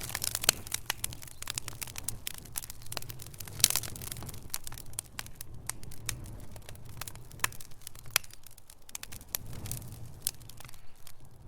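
Wood fire burning in a fireplace, with logs crackling and popping in irregular sharp snaps over a low steady rumble.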